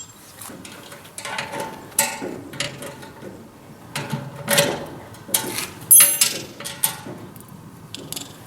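Metal parts of a Vikhr-2000 grain aeration fan being handled and fitted together: irregular clanks, clicks and scrapes, with a short metallic ring about six seconds in.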